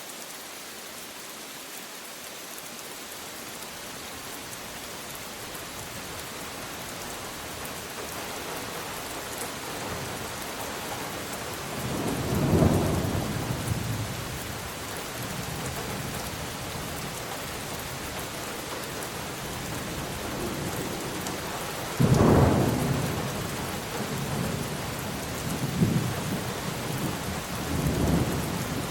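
Steady rain with rolling thunder: a rumble builds about 12 seconds in, and a louder clap breaks suddenly about 22 seconds in, followed by a couple of smaller rumbles near the end.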